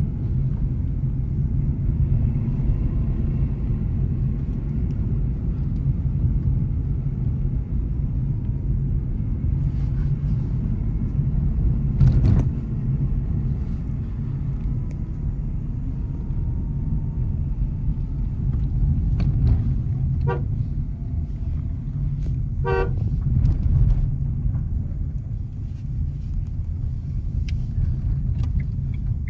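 Steady low road and engine rumble of a Nissan Magnite driving. A car horn gives two short beeps about twenty and twenty-three seconds in, and a single loud thump comes about twelve seconds in.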